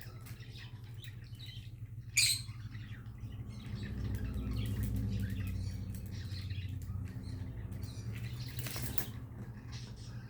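A conure moving about, with a flutter of wings and light scuffling, and a short sharp sound about two seconds in. A steady low hum runs behind it.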